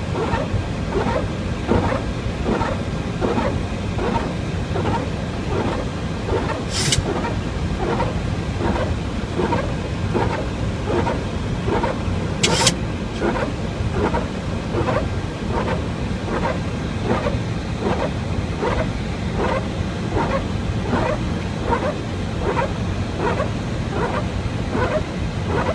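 Boeing 737-800 flight-deck windshield wipers sweeping steadily in rain, about three strokes every two seconds, over a constant hum of airflow and engines. Two sharp clicks stand out, about 7 and 12 seconds in.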